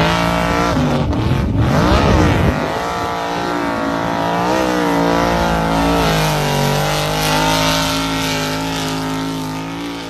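An engine running and revving, its pitch wavering up and down. The rougher, louder part ends about two and a half seconds in, after which the engine runs steadier before fading.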